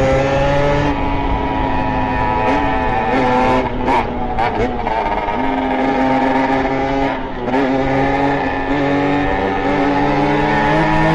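Beta RR 50 two-stroke moped engine with a 70cc Airsal kit and SCR Corse expansion exhaust, making a racket as it is ridden. Its pitch climbs and falls with the throttle, with short throttle-offs about four seconds in and again a little after seven seconds.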